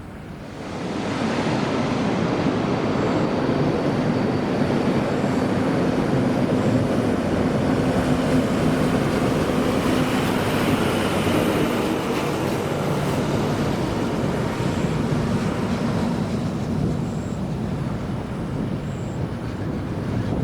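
Jet airliner passing close by, its engine roar swelling about a second in and then holding steady with a low hum running through it.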